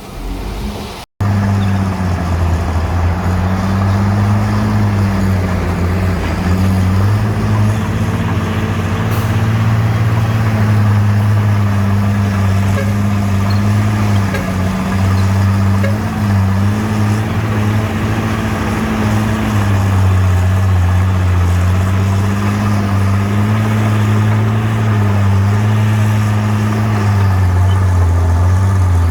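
Bulldozer's diesel engine running steadily under load, its low hum rising and falling slightly in pitch, after a brief cut about a second in.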